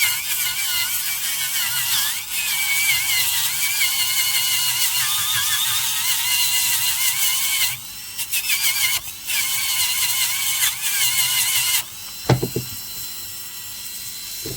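Slow-speed dental handpiece spinning a red medium-grit polishing disc against an amalgam filling: a high whine that wavers in pitch as the disc bears on the surface. It dips twice briefly, stops near the end, and is followed by a single knock.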